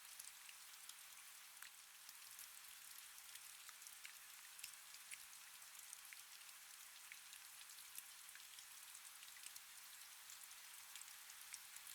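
Faint, steady rain, with scattered individual drops ticking through the even hiss.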